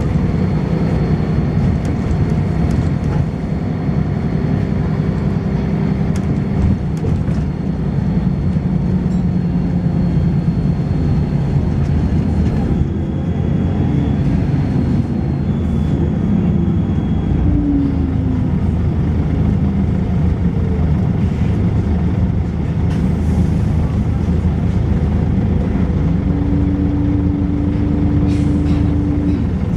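Volvo B10BLE single-decker bus heard from on board, its engine running under way with the ZF automatic gearbox and plenty of body rattle. A thin high-pitched whine runs for roughly the first twelve seconds and then stops. Around the middle the engine pitch shifts and falls, as at a gear change.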